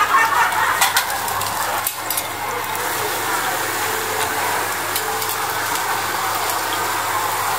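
Seafood omelette frying in hot oil in a wok: a steady, noisy sizzle, with a few sharp clicks of utensils in the first two seconds.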